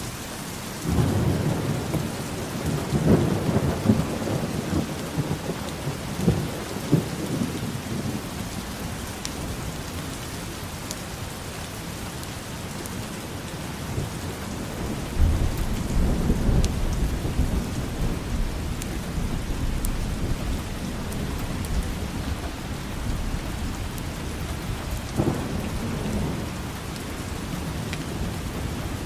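Steady rain falling, with rolling thunder: a long low rumble starting about a second in, another about halfway through, and a shorter one near the end.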